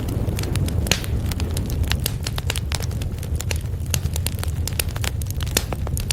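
Wood fire in a fireplace crackling: many sharp irregular pops and snaps over a steady low rumble of burning.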